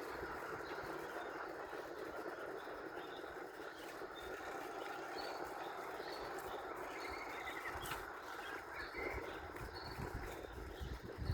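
Small birds chirping, short high calls repeating every second or so with a brief trill about seven seconds in, over a steady outdoor rush of background noise. A few low thumps come near the end.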